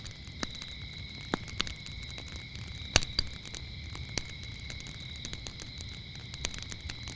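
Wood fire crackling, with scattered sharp pops (the loudest about three seconds in) over a low rumble, while crickets chirp in a steady high trill.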